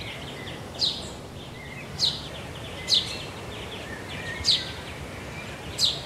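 Birdsong over a steady background hiss: a bird repeats a short, high call that sweeps downward, five times about every second or second and a half, with fainter twittering between.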